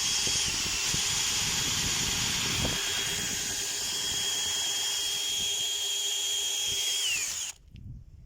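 DeWalt power drill running at full speed with a steady high whine. About seven seconds in, the motor winds down with a falling pitch and stops.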